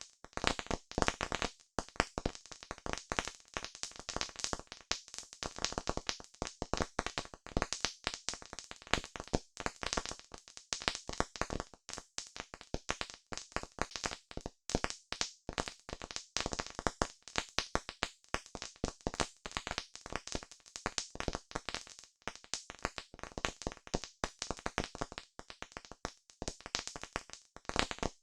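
Wood fire crackling steadily, with dense, irregular sharp pops and snaps.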